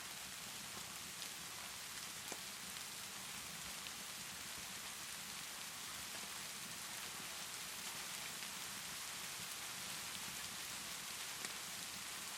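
Steady rainfall, an even, dense hiss with no let-up, with a few faint sharp clicks scattered through it.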